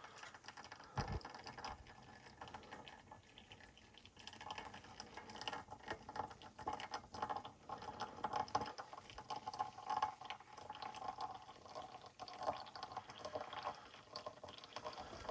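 Heavy night rain lashing down on a truck camper's roof: a dense, irregular patter of drops. A low thump comes about a second in.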